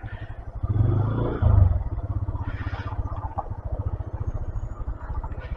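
125cc motorcycle engine running on the ride. It gets louder for about a second near the start, then settles back to a steady run.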